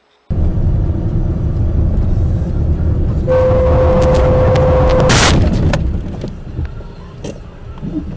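Road and engine rumble inside a car, then a car horn held for about two seconds, cut off by a loud crash impact with a few crunching cracks after it as the vehicles collide.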